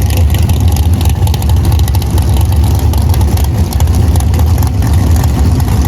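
Drag racing car's engine running loud and steady: a deep rumble with no clear rise or fall in pitch.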